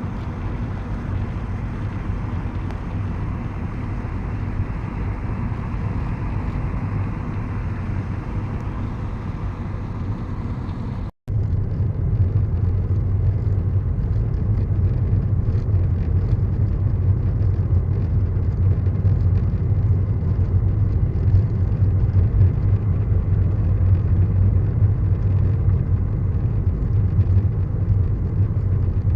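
Steady running noise of a moving road vehicle, a low drone with road rumble, broken by a brief cut about eleven seconds in and a little louder after it.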